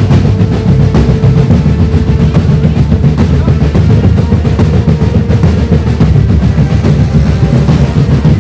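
Indonesian marching drum band playing a loud, fast dance beat, with bass drums and snare drums striking in a dense, unbroken rhythm.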